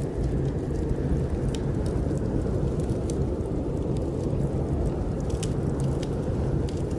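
Steady low rushing of snowstorm wind, with scattered sharp crackles and pops from a wood fire burning in a fireplace.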